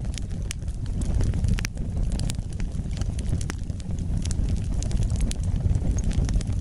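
Wood fire burning in a fireplace: a steady low rumble of flames with sharp crackles and pops, a few a second.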